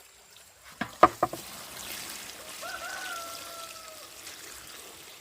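Three quick sharp knocks about a second in, then a steady hiss of trickling water, with a short, slightly falling, voice-like call over it.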